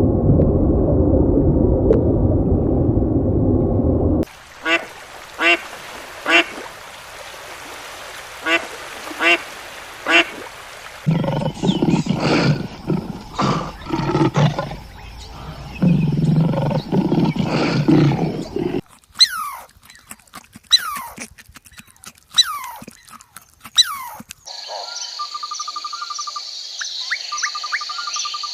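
A run of different animal sounds cut one after another: a low rumbling roar for about four seconds, then calls repeated about once a second, then a mix of calls, then sharp clicks with quick falling chirps, and a steady high buzz near the end.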